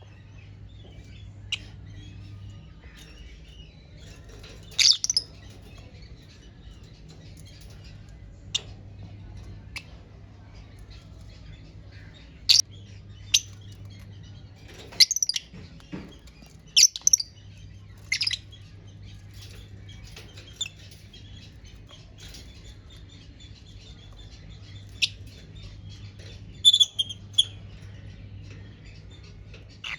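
Lovebirds giving short, high-pitched chirps and squawks at irregular intervals, several in quick succession near the end, over a faint steady low hum.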